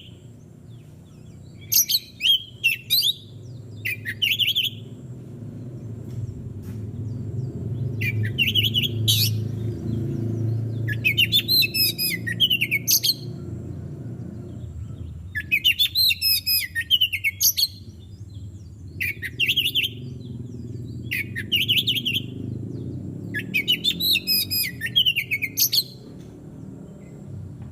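Oriental magpie-robin (kacer) singing: about eight or nine short phrases of quick, varied whistles, each a second or two long, separated by brief pauses. A steady low rumble runs underneath, louder in the middle.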